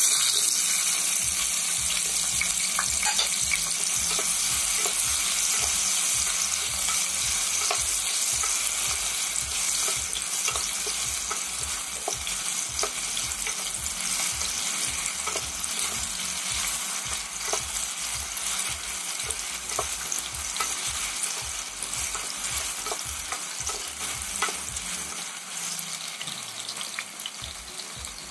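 Chopped potatoes sizzling in hot oil in a pan, starting suddenly as they go in, with a steady spitting hiss and scattered crackles. A wooden spatula stirs them at times. The sizzle slowly eases as the potatoes fry.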